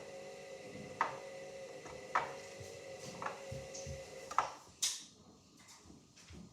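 Hoover Dynamic Next washing machine in its wash cycle: the drum motor turns with a steady whine and a sharp knock about once a second. A little past halfway the motor stops with a brief swish of water and laundry, and the drum comes to rest.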